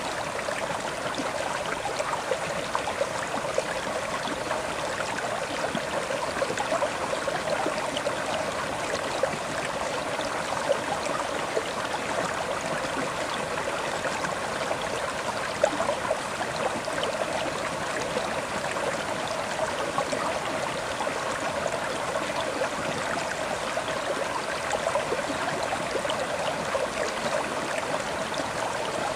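River water flowing over stones: a steady rushing and babbling stream with small splashes scattered through it.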